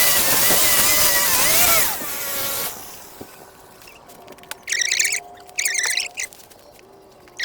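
A small engine-powered garden tool runs loudly with a wavering pitch, then cuts out about two seconds in and winds down. After a quiet stretch, two short high bird chirps come about a second apart.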